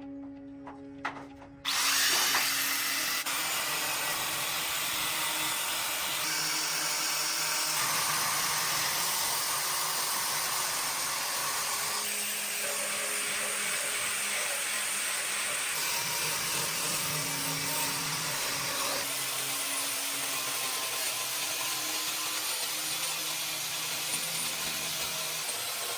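A power tool starts suddenly just under two seconds in and runs steadily, its tone shifting every few seconds as it works.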